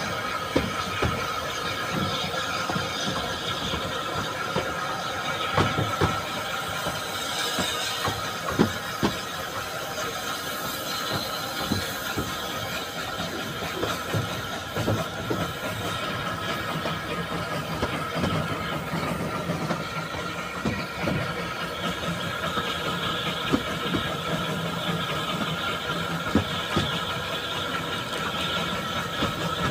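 Narrow-gauge steam train under way, heard from an open carriage window: wheels squealing on the rails with a steady high tone over the running noise, and scattered irregular knocks from the wheels on the track.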